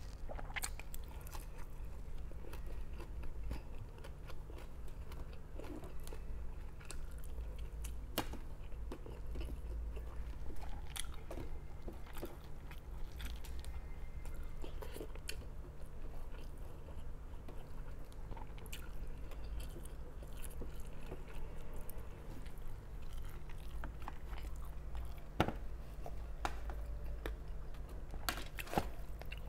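Close-miked chewing and mouth sounds of a person eating rice and food with their fingers, with small crunches and clicks over a steady low hum. Near the end come a few sharper knocks as rice is put onto the plate.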